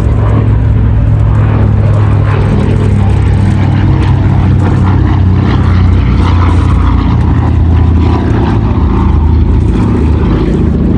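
Douglas C-41A's two radial piston engines running steadily, with a loud low propeller drone.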